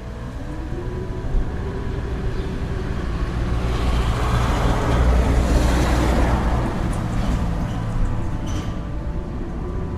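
Blizzard wind howling over a low rumble, with a gust that swells to a peak about halfway through and dies away. Steady sustained tones of soft background music run beneath it.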